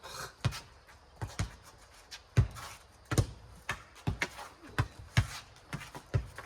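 A rubber playground ball in a four square game, bouncing on the ground and slapped by hands: sharp knocks at an irregular pace of about two a second.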